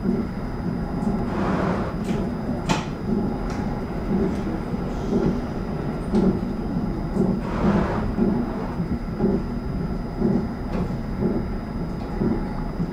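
Kintetsu 80000 series Hinotori electric train running along the line, heard from inside the front car: a steady rumble with a regular beat about twice a second and a few sharp clicks two to three seconds in.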